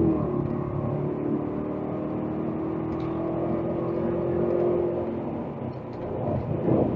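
BMW 840ci's V8 engine running at a steady pitch while the car drives along, with road and tyre noise; the engine note fades about six seconds in.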